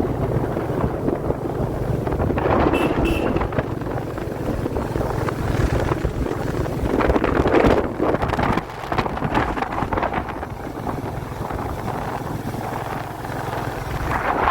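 Royal Enfield Classic 350's single-cylinder engine running on the move, with wind buffeting the microphone.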